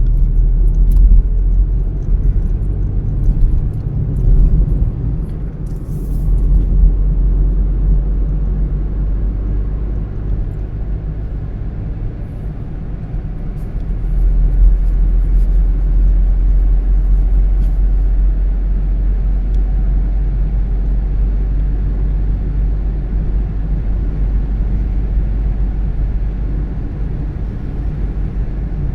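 Car driving along a road: a steady low rumble of engine and tyre noise, growing louder about fourteen seconds in.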